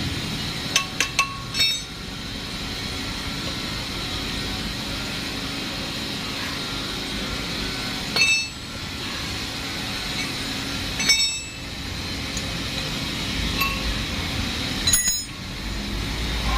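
Hard metal parts clinking against each other with short rings: a quick run of about four clinks about a second in, then single clinks spaced a few seconds apart, over a steady background hum.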